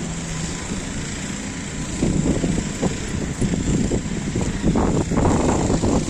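A motor vehicle running on a city street, with wind gusts buffeting the microphone from about two seconds in.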